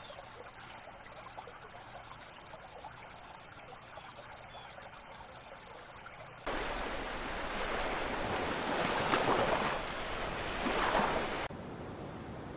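Rushing water: a quiet hiss first, then about six seconds in a louder rush that swells twice and cuts off abruptly near the end.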